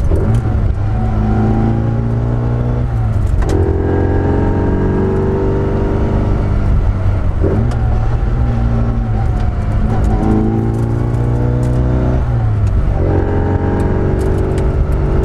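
Classic Mini's A-series four-cylinder engine on a Weber carburettor, heard from inside the cabin as it is driven hard. The revs rise and fall in pulls of about three seconds, with brief lifts or gear changes between them, and the whine of its straight-cut gearbox runs over the engine note.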